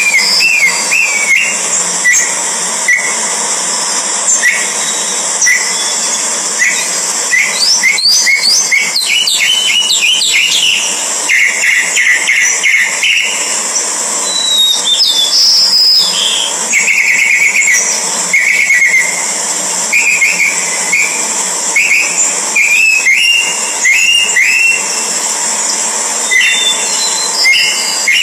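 Birds chirping: many short, high chirps, some in quick runs, over a steady high hiss.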